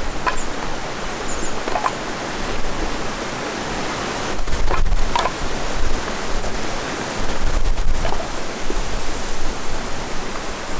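Wind blowing steadily as a rushing noise, gusting against the microphone with a low rumble twice, around the middle and again later, with a few faint clicks.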